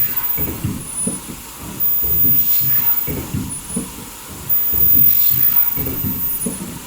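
Foldable mask production line running: dense mechanical clatter with air hissing, and a high thin whine that comes on for a second or two about every two and a half seconds as the machine cycles.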